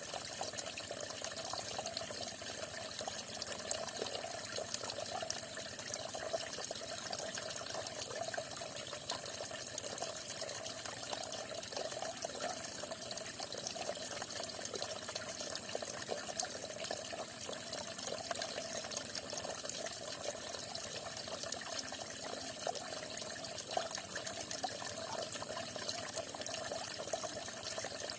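Falling water splashing steadily, with small splashes and drips popping out of the even rush.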